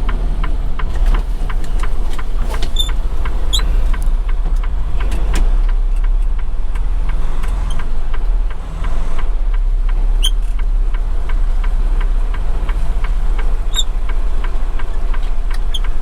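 Semi-truck tractor's diesel engine running with a steady low rumble, heard from the cab during low-speed maneuvering with a trailer, with a light, rapid, even clatter over it.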